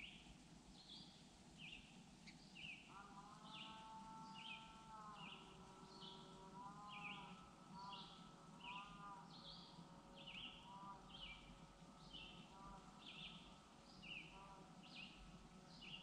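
Faint lakeside ambience with a small bird chirping over and over, about two short high notes a second. About three seconds in, a lower drawn-out call with several overtones lasts about two seconds, then returns in shorter pieces until about eleven seconds in.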